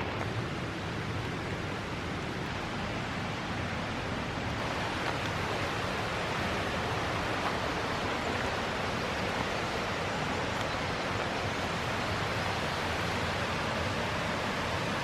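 Steady rain falling at night, a continuous even hiss with no break.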